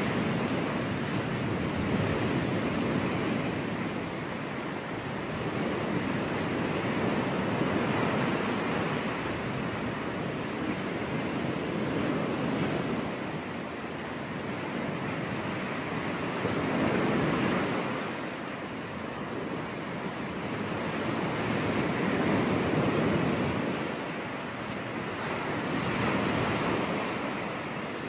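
Ocean surf: waves breaking and washing up the shore in a steady hiss that swells and ebbs, with a wave peaking about every four to five seconds.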